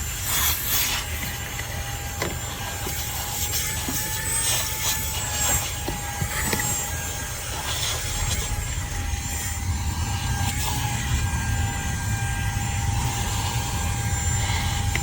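Cordless handheld vacuum running steadily: a constant motor whine over a rushing of air, with a few light knocks along the way.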